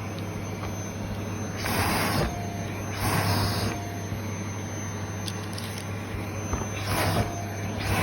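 A vacuum cleaner runs steadily with a low hum and a thin high whine, being used to clean a used mop. There are three louder rushes of suction hiss, about two seconds in, at three seconds and near the end.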